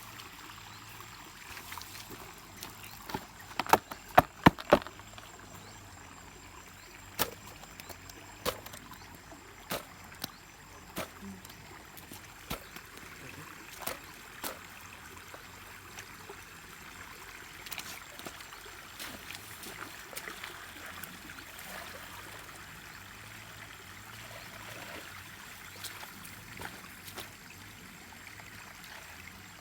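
Stream water running steadily, with a quick run of loud, sharp knocks about four seconds in and scattered lighter clicks and knocks after.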